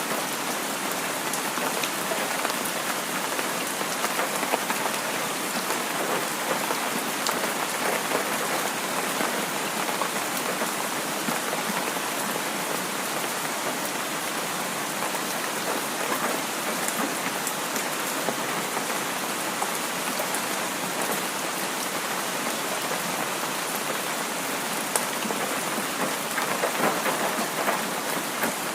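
Heavy rain pouring steadily, a dense even hiss sprinkled with small sharp drop hits.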